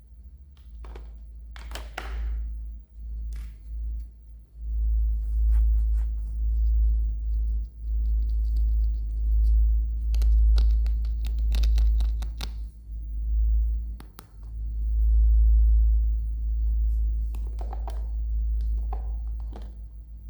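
Close-up handling of a toy and its packaging: deep rumbling bumps, with scattered sharp clicks and crinkly plastic rustles, the busiest run of clicks in the middle.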